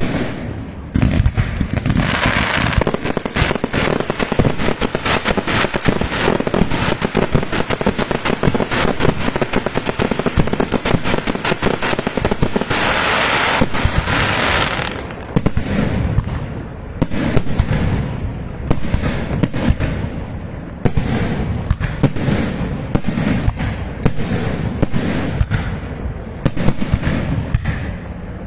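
Fireworks going off in a dense, continuous barrage of rapid bangs and crackles, thinning after about fifteen seconds into separate sharp bangs a second or so apart.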